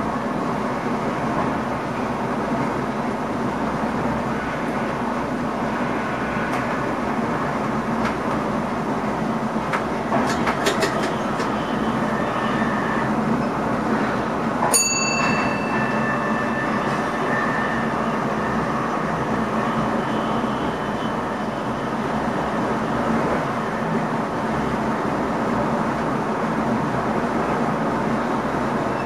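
Steady running noise inside the driver's cab of an NS ICM (Koploper) electric multiple unit under way, an even rumble and hiss. A few clicks come about ten seconds in, and a single sharp click with a short ring about halfway through.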